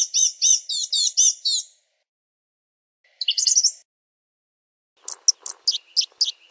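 Blue-gray gnatcatcher singing in three short phrases of thin, high notes. It opens with a quick run of repeated notes, gives a brief phrase about three seconds in, and ends with a series of sharp, separate notes.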